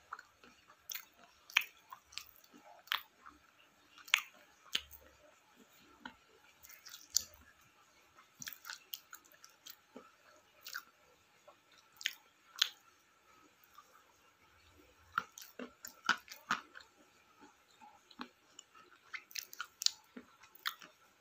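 A person chewing and eating: irregular short clicks and crunches, sometimes in quick clusters.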